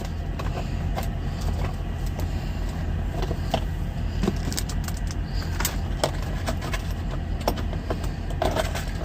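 Clicks, knocks and light clatter of things being moved about while rummaging for a can opener, over a steady low hum in a truck cab.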